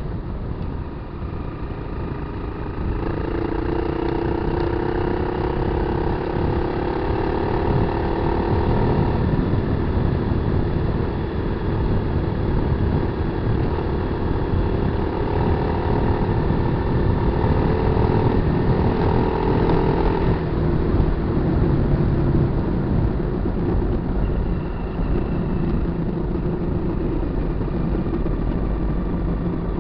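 Kawasaki KLR250's single-cylinder four-stroke engine running over a heavy low rumble. The engine note rises about three seconds in, climbs slowly and holds, then drops back about two-thirds of the way through.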